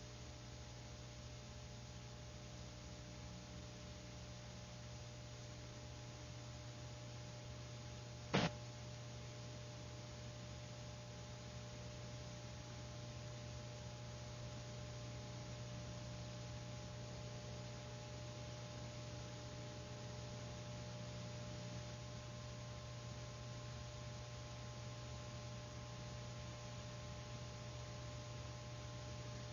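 Faint steady hum and hiss of an old film soundtrack with no narration, with one sharp click about eight seconds in.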